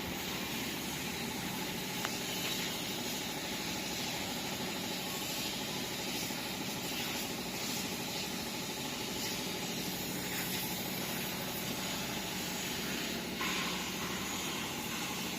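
Small diesel engine running steadily, with a few faint clicks.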